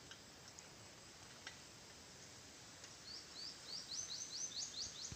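A bird calling faintly: a run of about ten short high notes, each sliding upward, that come quicker and quicker, starting about three seconds in.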